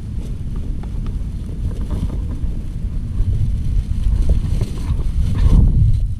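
Wind buffeting the microphone: a steady low rumble that grows a little stronger near the end.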